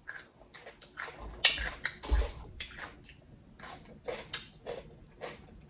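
Chewing a bite of raw red bell pepper close to the microphone: a string of crisp crunches, loudest about one and a half to two seconds in.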